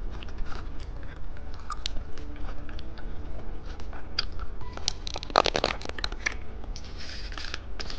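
Small plastic candy packets being handled, with light scratching and clicking and a brief cluster of clicks about five seconds in.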